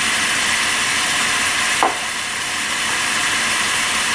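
Tomato masala frying in a wok, a steady sizzle as the freshly added chilli flakes and turmeric cook in the oil.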